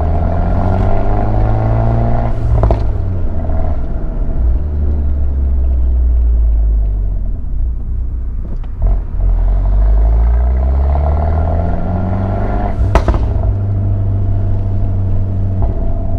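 Abarth 124 Spider's big-turbo four-cylinder engine and Ragazzon exhaust under way: the engine note climbs under throttle, breaks with a sharp crack about two and a half seconds in, falls away, then climbs again to a second sharp crack near the thirteen-second mark before settling. A deep exhaust rumble runs underneath.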